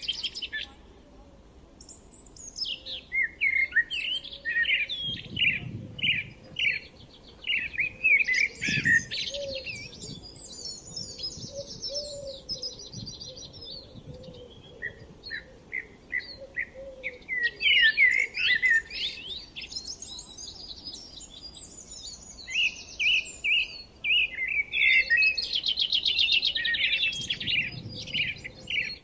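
Several songbirds singing together in a forest chorus: quick repeated chirps overlapping with fast, rattling trills, pausing briefly now and then.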